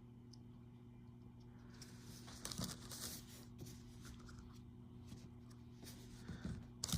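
Soft rustling and light tapping of a handmade paper toy being handled and set upright on a surface, starting about two seconds in, over a faint steady hum.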